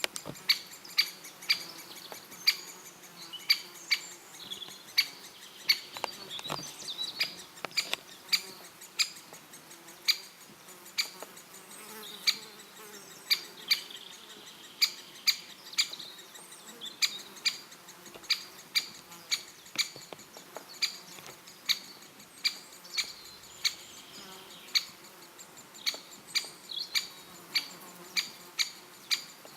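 Great spotted woodpecker making a long, irregular series of sharp single clicks, about one to two a second, with faint chirps of other birds behind them.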